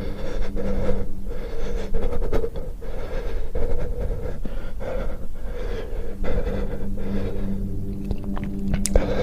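Repeated heavy, panting breaths through the mouth, with gasps, from a person suffering the burn of extremely spicy peanuts, close to the microphone. A steady low hum runs underneath.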